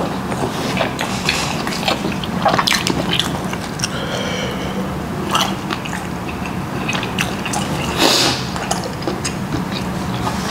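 Close-miked chewing of a mouthful of braised oxtail: wet smacking, squelching and small mouth clicks, over a steady low hum.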